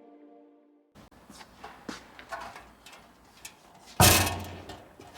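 Background music fading out, then small handling clicks and knocks, and one loud thud about four seconds in.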